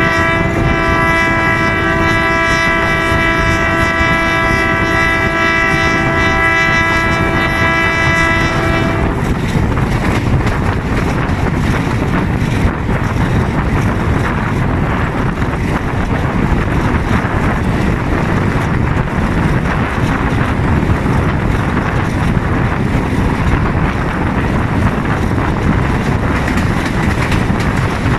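Diesel locomotive horn held in one long steady blast that cuts off about nine seconds in, over the steady running noise of the train. After that comes the GRU 20 locomotive's diesel engine working under load, with the coaches' wheels running on the rails.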